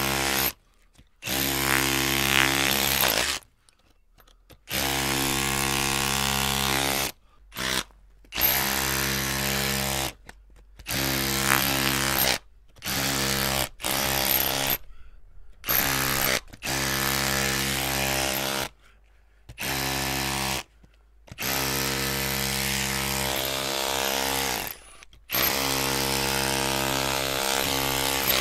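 Electric drill motor running in repeated bursts of about half a second to four seconds, each starting and cutting off abruptly, about a dozen times.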